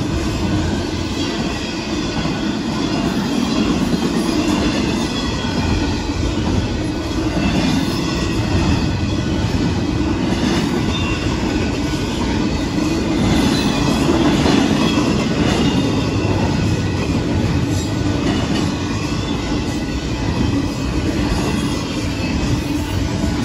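Union Pacific intermodal train's double-stack container cars rolling past: steel wheels on the rails in a steady, loud running noise, with a faint, wavering high squeal from the wheels.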